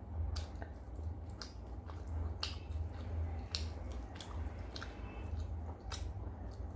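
Close-up eating sounds of rice and steamed hilsa fish eaten by hand: wet chewing and irregular sharp mouth clicks, with fingers squishing the food. A steady low hum runs underneath.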